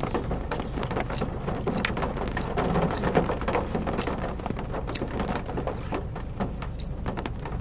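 Steady rain falling on a car's roof and windows, heard from inside the cabin as a dense patter of small clicks, with close chewing of mac and cheese.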